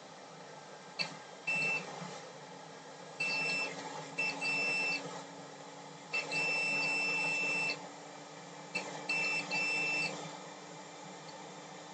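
Multimeter continuity buzzer beeping in short and longer tones, one held for about a second and a half, as the probes touch points around the PS5's HDMI encoder. The beeps show the lines there reading as a short to ground.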